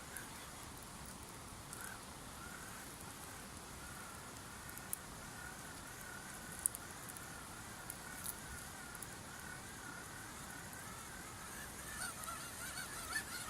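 Campfire burning with a thin, wavering whistle from the burning wood, plus a few sharp crackles; the whistle turns choppier near the end.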